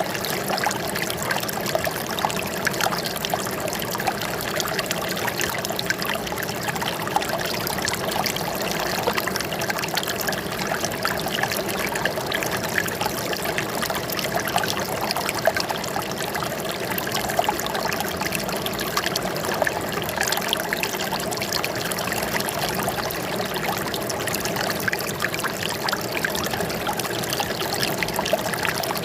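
Flowing water trickling and splashing steadily, an even rushing with no pauses or changes.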